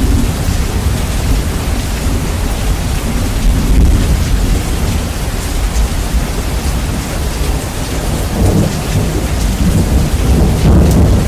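Heavy rain falling steadily under a continuous low rumble of thunder, bass-boosted so the deep rumble dominates and runs very loud.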